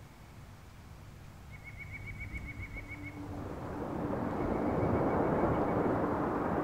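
Outdoor ambience fading in: a steady rushing noise grows louder while a bird trills a rapid run of high notes about a second and a half in, then again more faintly a few seconds later. A low steady tone hums underneath.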